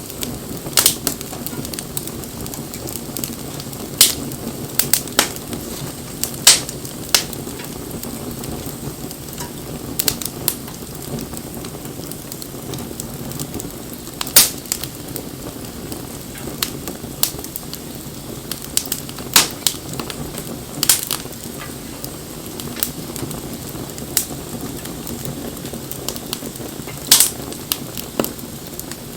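Wood bonfire burning: a steady low hiss of flames with irregular sharp crackles and pops, roughly one every second or two.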